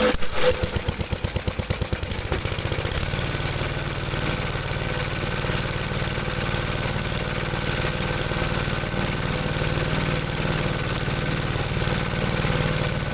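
1973 Gravely C8 single-cylinder engine running, its separate firing pulses plain for the first few seconds before it speeds up and settles into an even run about three seconds in. There is no popping from the exhaust: the misfire is cured by resetting the magneto timing.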